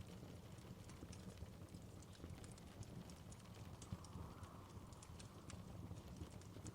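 Faint wood fire in a fireplace crackling, with scattered sharp pops over a low steady rumble.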